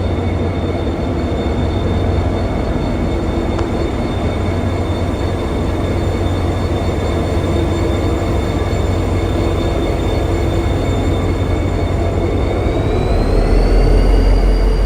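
Electric subway train running, with a low rumble under a steady high whine from its motors. About thirteen seconds in, the whine rises in pitch and the rumble gets louder.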